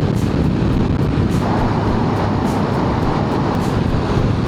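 Motorcycle being ridden at steady speed, its engine and the rush of wind over the microphone blending into one loud, even noise.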